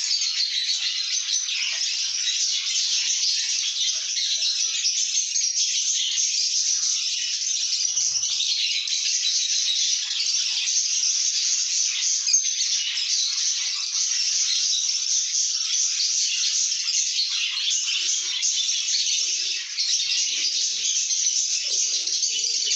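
A flock of lovebirds chattering together, a dense, unbroken high-pitched twittering.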